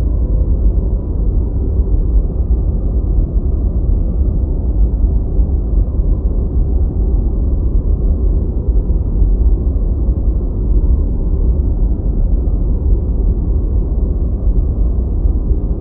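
Steady deep white noise, low-pitched and muffled with no high hiss, loudest in the bass.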